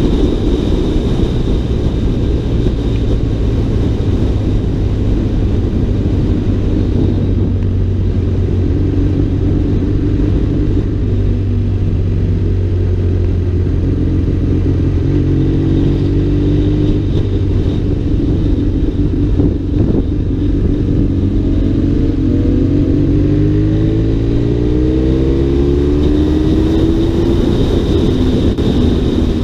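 Sport motorcycle engine running under way, heard from on the bike as a steady, muffled low drone. Its pitch climbs several times in the second half as the bike accelerates.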